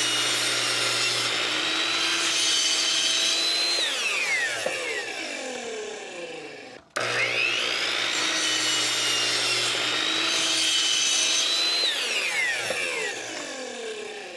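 Electric power saw cutting a wooden board: the motor runs at speed with a steady whine through the cut, then winds down with a falling whine. About halfway through the sound breaks off abruptly and the same run-and-wind-down happens again.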